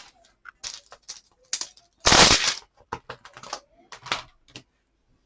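Light clicks and taps of plastic stamping supplies being handled, with a louder brief scrape or rustle about two seconds in.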